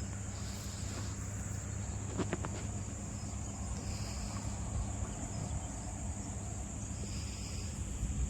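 Steady high-pitched insect chorus over a low steady hum, with a few brief clicks about two seconds in.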